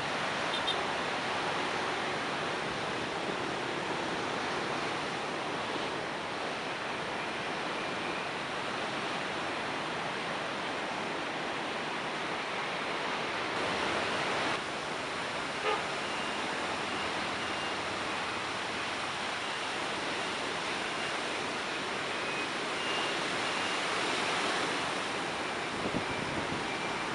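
Rough sea surf breaking and rushing steadily, with a few faint short high beeps in the second half.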